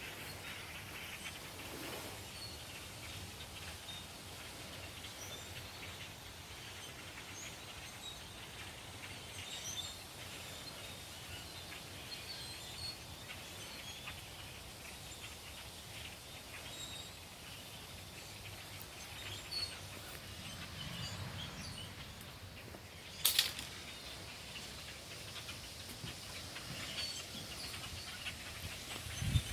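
A large flock of birds chirping and calling over steady background noise, many scattered short chirps overlapping. One short, sharp, loud sound stands out about three-quarters of the way through.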